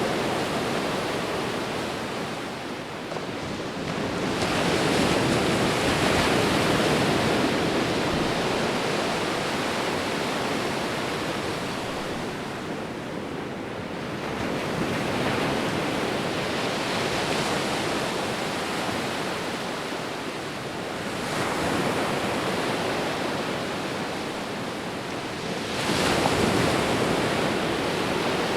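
Sea waves breaking and washing in, the surf swelling and easing in slow surges every several seconds, with a sudden louder break near the end.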